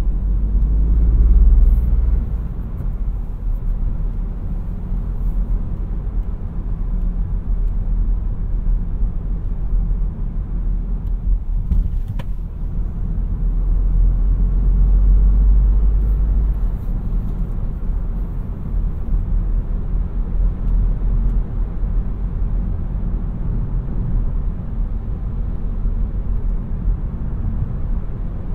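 2017 Seat Arona's 1.0 TSI three-cylinder turbo petrol engine and road noise while driving: a steady low rumble that swells louder about a second in and again around the middle. There is one short click about halfway through.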